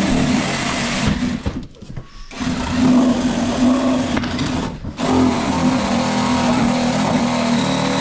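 An electric power tool's motor running with a steady hum, cutting out for about half a second about two seconds in and briefly again near the five-second mark, then running on.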